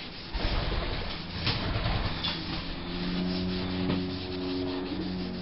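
Wet scouring pad scrubbing a motorcycle exhaust downpipe in repeated rubbing strokes against the metal, working off the corrosion marks loosened by the toilet-cleaner acid.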